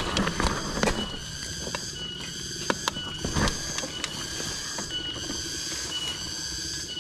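Cicadas calling: a high, buzzing call that pulses on and off about once a second. There are a few sharp clicks and rattles in the first second.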